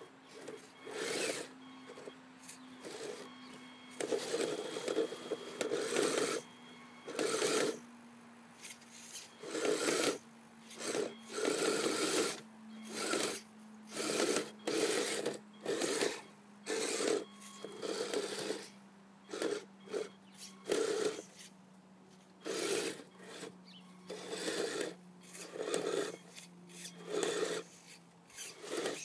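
Kyosho Blizzard SR radio-controlled snowcat's electric drive motors, gearboxes and tracks running in short rasping bursts, about two dozen, as the throttle is blipped on and off while it pushes snow. A faint steady hum slowly dropping in pitch runs underneath.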